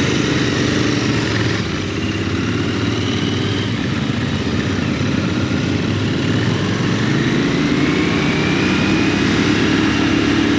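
Royal Enfield GT 650's 648 cc parallel-twin engine running on the move, its note dipping slightly about two seconds in, then rising steadily through the second half as the bike accelerates.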